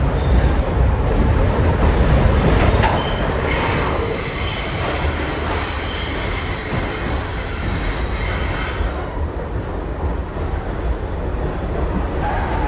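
Kawasaki R62 subway train running on the rails with a steady low rumble. About three and a half seconds in, its steel wheels set up a high, steady squeal against the rail, which cuts out after about five seconds.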